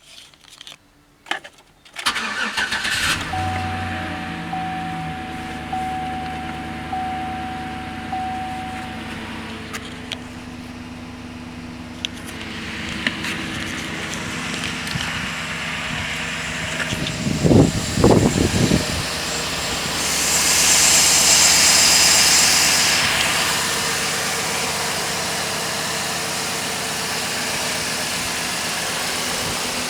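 2013 Silverado 5.3-litre LMG Vortec V8 cranking and starting about two seconds in, running at a fast idle that settles lower, with a steady chime tone for several seconds after the start. A little past halfway there are a couple of quick throttle blips, followed by a few seconds of hiss.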